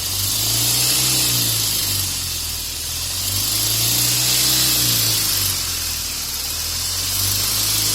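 Vehicle engine revved up and down in slow waves, its exhaust forced through a hose into a tubeless tyre to inflate it, with a steady loud hiss of rushing gas over the engine note.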